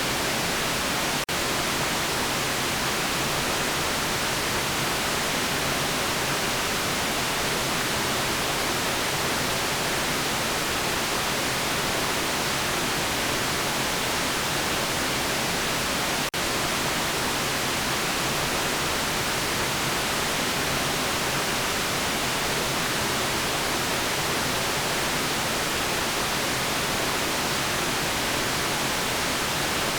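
Steady electronic white noise: an even, unbroken hiss across the whole range of pitch. It drops out for an instant twice, about a second in and about halfway through.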